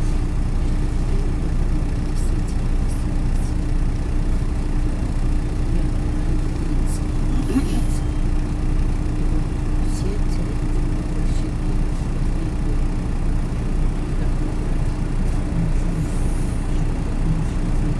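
MAZ-103 city bus driving, heard from inside the cabin: a steady low engine and road drone with a constant hum. Two brief high hisses of air cut in, about eight seconds in and near the end.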